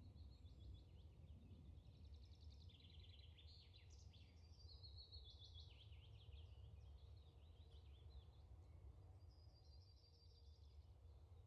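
Near silence: faint background noise with a low hum, and faint bird chirps and trills over it through the first half and again near the end.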